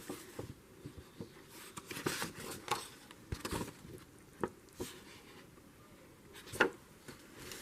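Paper stationery and envelopes being handled: scattered soft rustles and light taps, with one louder tap near the end.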